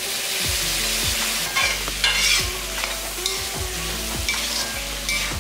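Soya chunks and masala sizzling in a hot pan as they are stirred, with a spoon scraping across the pan several times over the steady sizzle.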